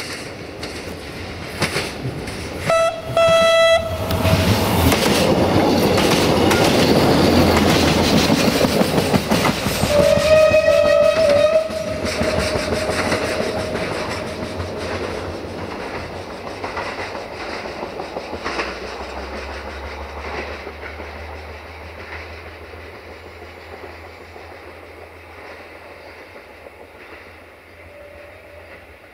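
A train passing close by. It sounds its horn twice, a short blast about three seconds in and a longer one about ten seconds in, while its wheels click rhythmically over the rail joints. The rumble then fades away into the distance.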